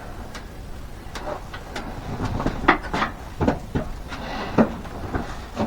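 Irregular knocks and clatter of hard objects being handled, with a few sharper knocks near the middle.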